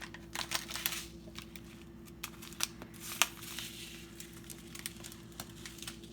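Crinkling plastic spice packaging being handled, with scattered sharp clicks and rustles and one louder snap about three seconds in, over a faint steady hum.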